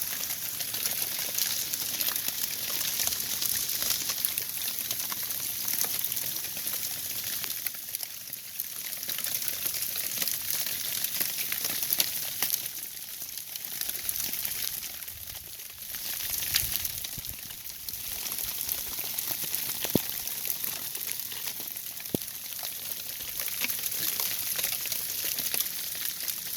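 Sleet, a mix of rain, snow and ice, falling and pattering on surfaces: a steady, dense hiss of tiny ticks with a few louder single ticks.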